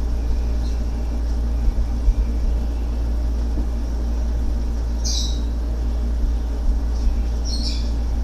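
Steady low hum, with a few short high-pitched chirps or squeaks about five seconds in and again near the end.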